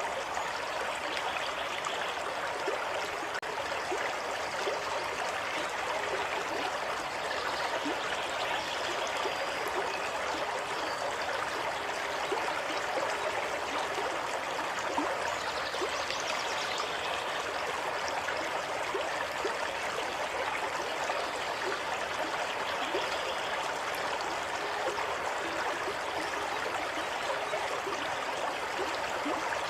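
Shallow stream of water running and trickling steadily, with small gurgles and splashes over a constant rush.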